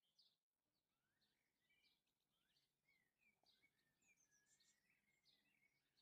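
Faint songbird twittering: a quick, continuous run of short chirps and rising and falling whistles, with a brief break about half a second in.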